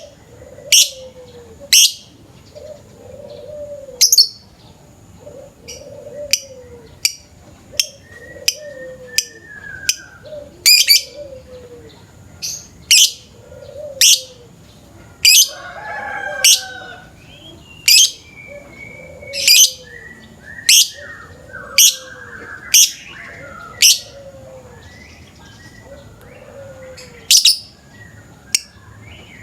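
Lovebird calling with sharp, high chirps about once a second, while a lower, falling call repeats about every second and a half beneath them.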